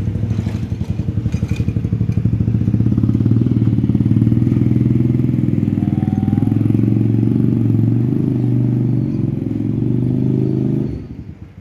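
Motorcycle engine running steadily, then shut off suddenly near the end.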